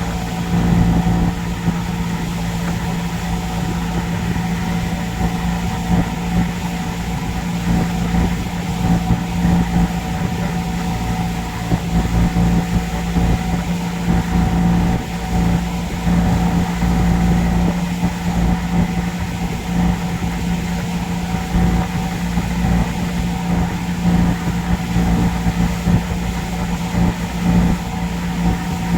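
A boat's engine running steadily under way, a constant drone with a strong low hum and higher steady tones, over a rushing haze of water and wind.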